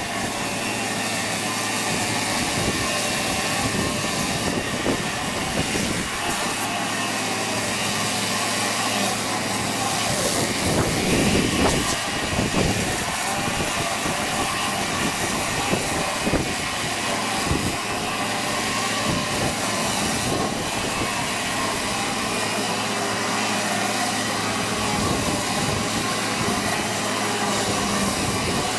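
Pressure washer running and spraying: a steady hiss of the water jet over a low, even hum from the machine, swelling briefly about eleven seconds in.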